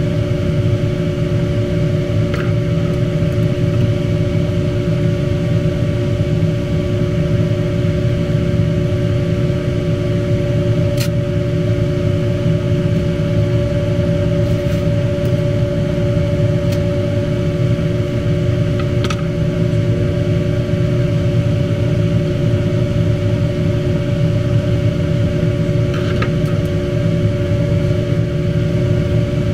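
Steady machine hum with a couple of constant tones, and a few faint clicks scattered through it.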